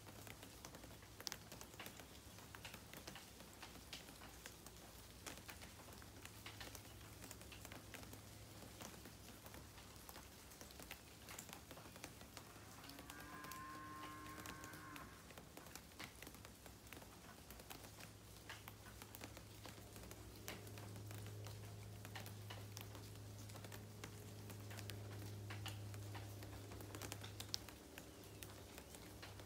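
Light rain pattering and dripping, a steady scatter of faint drops and ticks. A short pitched call sounds about halfway through, and a low hum swells in the second half.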